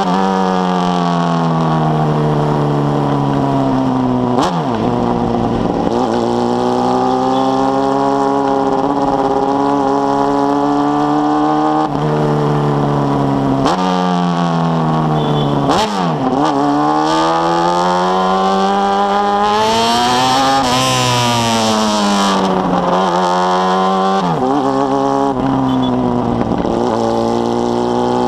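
Honda Hornet's carbureted inline-four running through a 4-into-1 exhaust, pulling up through the rev range and dropping sharply at each of several upshifts, with a longer rev up and roll-off near the end.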